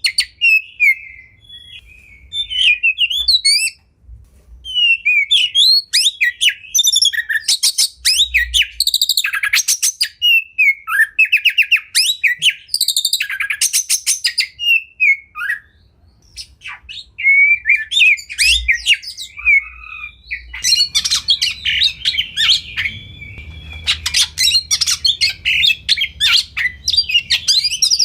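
Oriental magpie-robin (kacer) singing: a long run of varied whistled phrases and rapid trills, busiest in the last third.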